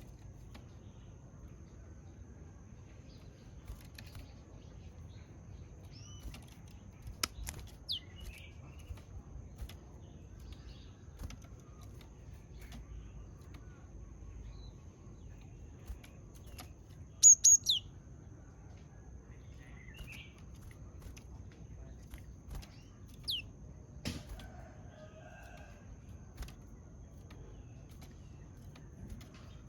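Japanese tit giving sparse, sharp, high chirps that sweep downward in pitch, with a quick run of three about halfway through as the loudest moment. Faint clicks and a soft knock sound between the calls, likely the bird moving about.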